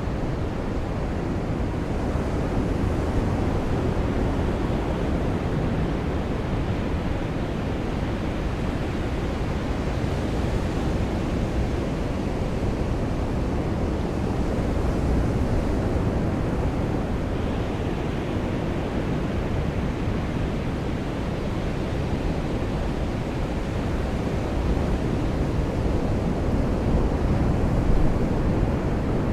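Seaside rain ambience: a steady, dense rush of surf and rain, mostly low-pitched, swelling slightly about halfway through and again near the end.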